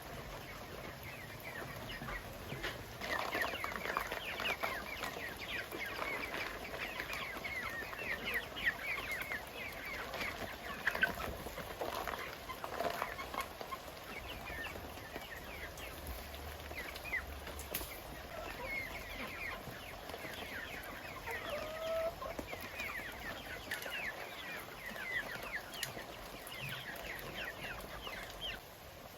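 A flock of chickens clucking and calling, with many short high chirps throughout.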